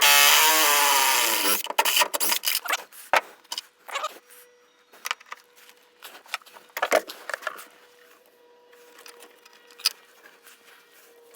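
Tool work on the boat's engine: a loud whirring, hissing burst lasting about a second and a half, then scattered clicks and knocks of metal tools.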